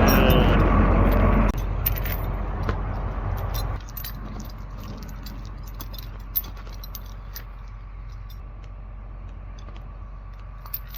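An engine runs loud and steady, then drops in level about a second and a half in and again near four seconds, leaving a lower running hum with light metallic rattles and clinks.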